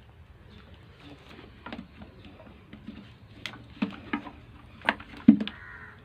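Irregular plastic clicks and knocks from prying at an electric kettle's clip-held switch cover, with the loudest knock about five seconds in and a short scrape near the end.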